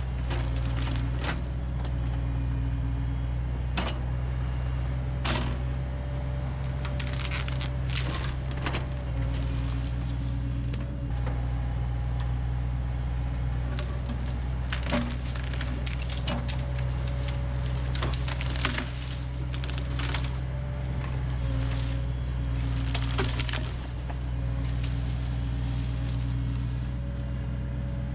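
Heavy equipment's diesel engine running steadily, its hydraulics whining at shifting pitches, with repeated sharp cracks and snaps of wood being broken and handled.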